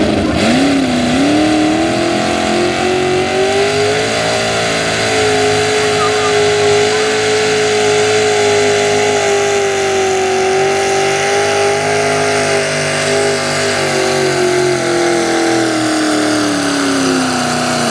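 Super stock two-wheel-drive pickup's engine at full throttle during a sled pull. It revs up sharply at the start, holds high revs for most of the run, then winds down near the end as the pass finishes.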